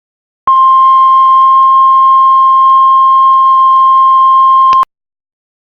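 Heart monitor flatline: one long steady beep tone that starts about half a second in and cuts off suddenly after about four seconds, the sign that the heart has stopped.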